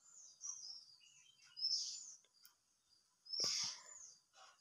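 A small bird chirping faintly: short high chirps, two of them louder at about one and a half and three and a half seconds in. A soft knock or rustle comes with the second one.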